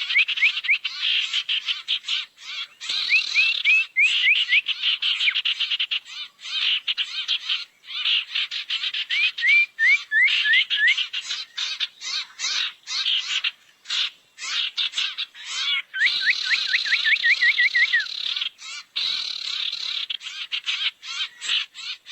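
Lure recording of 'sirtu' bird calls: runs of four to eight quick rising chirps, repeated several times, over a dense, rapid, rattling chatter.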